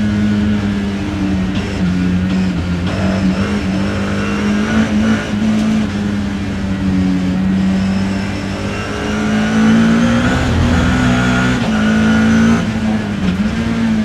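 BMW E30 M3 race car's four-cylinder engine heard onboard, running hard at fairly steady revs with small dips and rises in pitch.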